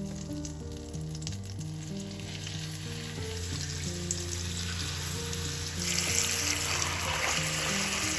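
Food sizzling in hot oil in a frying pan, growing louder about six seconds in, over soft background music.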